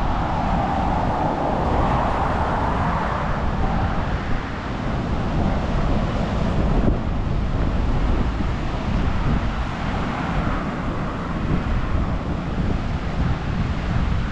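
Strong wind buffeting the microphone: loud, irregular low rumbling and rushing.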